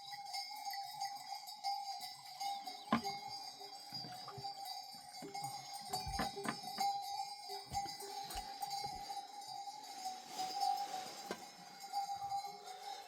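Bells on a herd of goats and sheep ringing and clanking unevenly as the animals move, with scattered sharp knocks.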